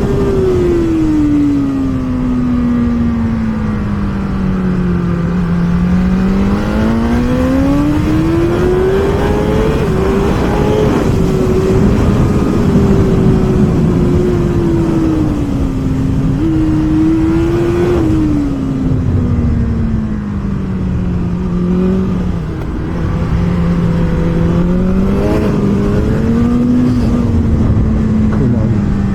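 BMW S1000RR inline-four engine at racing revs, its pitch falling and rising again and again as the rider brakes and accelerates, with a sudden step up about halfway through, over a steady rush of noise.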